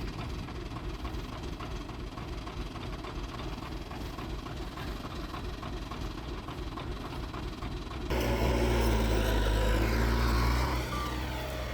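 Heavy diesel engine of earthmoving machinery running steadily, then getting clearly louder and deeper about eight seconds in as the machine is put under load or drives closer.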